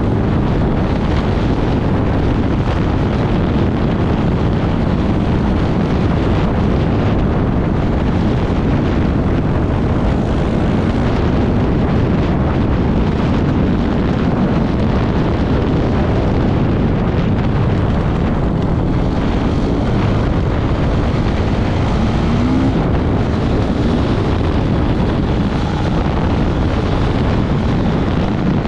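Off-road motorcycle running at speed, its engine almost buried under heavy wind buffeting on the microphone, with one brief rise in engine pitch late on.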